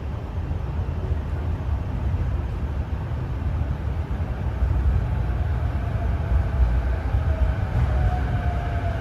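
Limited express electric train running into the station along the platform, a heavy low rumble that grows louder, with a whine that falls in pitch in the second half as the train slows.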